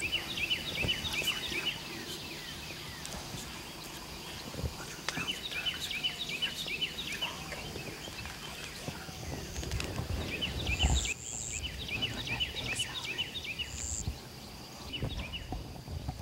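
Bird calls in quick runs of chirps, coming and going in three bursts, with a few short high whistle notes. A single low thump about eleven seconds in.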